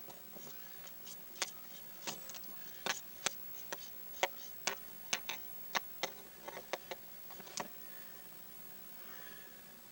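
A run of about fifteen irregular sharp clicks and light knocks over seven seconds, typical of someone moving about and handling things in a wooden attic.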